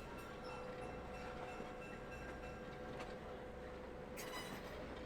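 Scenic-railway train running: a low rumble with a steady humming tone, a couple of light clicks, and a brief hiss about four seconds in.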